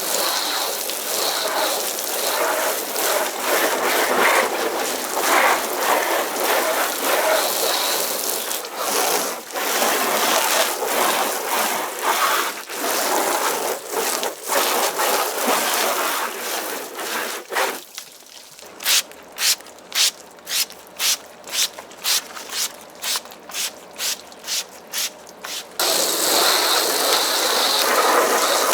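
Garden-hose foam-gun nozzle spraying water and foam onto a car's body: a steady spray hiss, which breaks about two-thirds through into a run of short spurts about twice a second for several seconds before going steady again.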